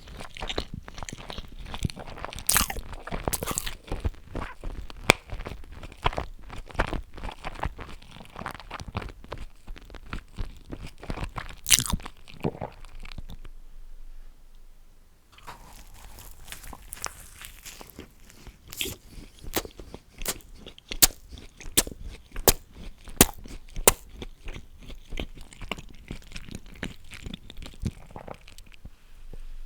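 Close-miked eating sounds: steady chewing and crunching of food, with a brief lull about halfway through and then a run of sharp, loud crunches.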